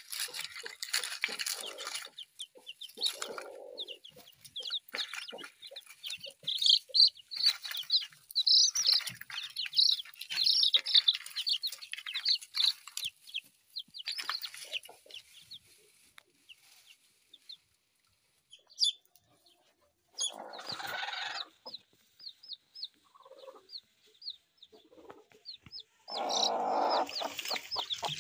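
Chickens calling: many short, high-pitched calls in quick runs, with a couple of brief scuffling or rustling bursts about two-thirds of the way in and near the end.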